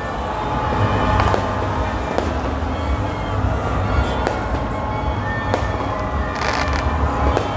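Aerial fireworks crackling steadily, with about half a dozen sharp bangs as shells burst.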